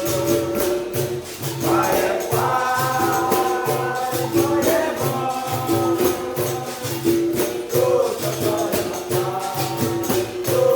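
Capoeira bateria playing, most likely the benguela rhythm: a berimbau's repeated note, pandeiro jingles and an atabaque's steady low beat. Voices sing a held sung line over it from about two seconds in.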